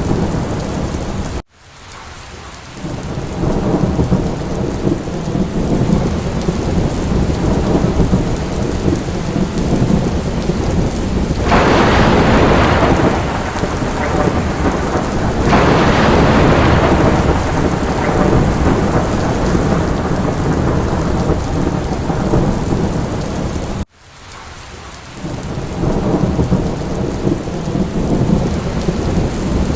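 Steady heavy rain with low rumbling thunder, swelling twice into louder surges in the middle. Twice the sound cuts out suddenly and fades back in, like the seam of a looped recording.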